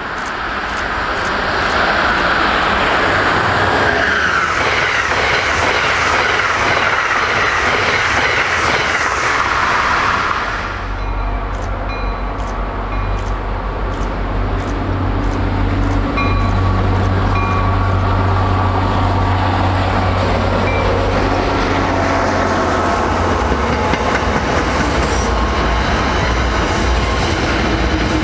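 An Amtrak electric train approaches at speed, a rushing noise of wheels and air that grows louder. About ten seconds in, the sound changes to an MBTA commuter train: the steady low rumble of its diesel locomotive as it nears, then its coaches rolling past near the end.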